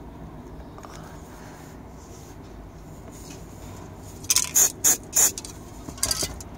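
Paint being sprayed onto a car interior repair: four short hissing sprays about a third of a second apart, starting about four seconds in, and another brief spray near the end, over a low steady background hum.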